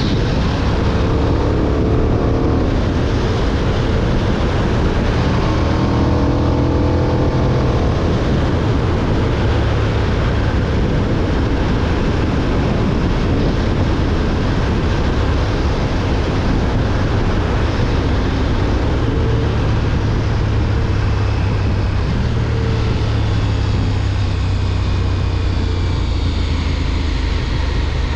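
2020 KTM 1290 Super Duke R's V-twin engine running on the move, its note rising and falling a few times, half buried under a heavy rumble of wind on the GoPro's microphone.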